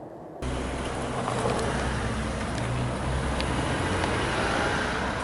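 A motor vehicle engine running steadily, with street traffic noise, starting abruptly about half a second in.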